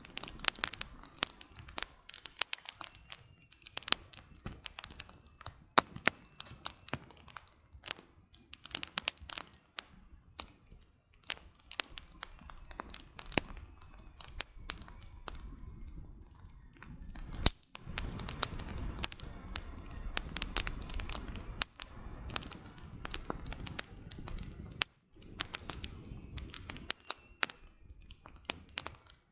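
Wood campfire burning, with dense, irregular crackles and sharp pops of the firewood. A low rushing sound swells in the middle for several seconds.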